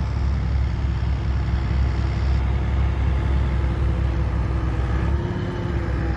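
Vehicle engine running steadily, heard from inside the cab as a low rumble with a faint steady tone above it; the rumble shifts slightly about five seconds in.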